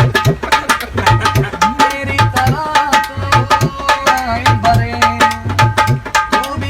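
Tabla played in a fast, continuous run of strokes: the small right-hand drum rings at a steady pitch while the large left-hand bass drum sounds low notes that are bent up and down in pitch.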